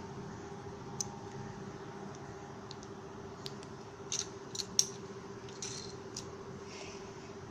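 Scattered small, sharp clicks and clatters of hard plastic, a few close together near the middle, over a steady low hum.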